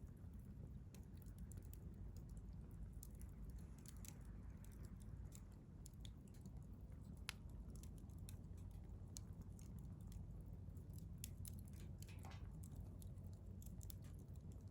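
Wood campfire crackling: irregular sharp pops and ticks of burning wood over a steady low rumble of the flames, with a brief hiss about twelve seconds in.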